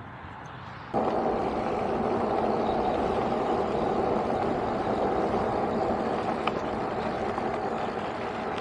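Steady road and wind noise while riding along a highway, starting abruptly about a second in.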